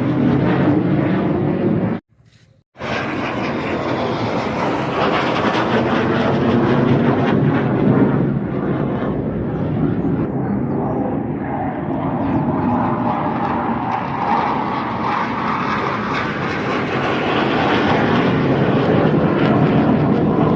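Airplane flying low overhead: loud, steady engine noise that drops out briefly about two seconds in and grows a little duller in its upper range about halfway through.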